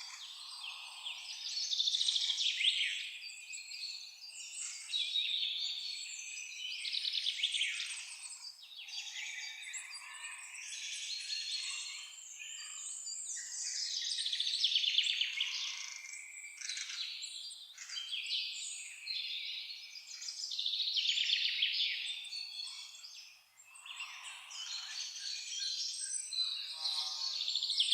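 Several birds singing and calling at once in a forest chorus, with chirps and trills overlapping in swells a few seconds long.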